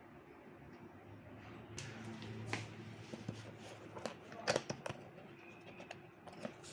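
Rustling and sharp clicks of packaging being handled by hand, starting about two seconds in, with a few louder clicks near the middle.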